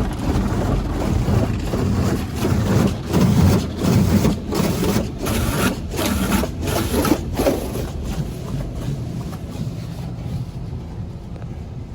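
Tandem Protouch automatic car wash working over the car, heard from inside the car: a rushing hiss of spray and equipment with a low rumble, pulsing in quick surges through the middle seconds, then dying down toward the end.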